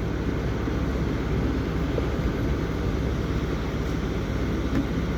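Engine of heavy machinery running steadily.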